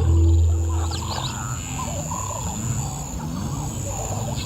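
A lion's low growl for about the first second, then birds chirping and calling in the bush.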